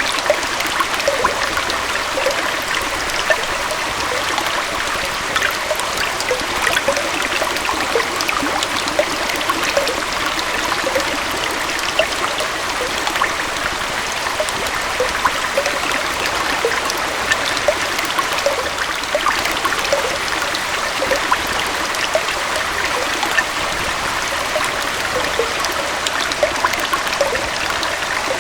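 Small forest waterfall and stream flowing steadily: an even rush of water with frequent small gurgles and splashes.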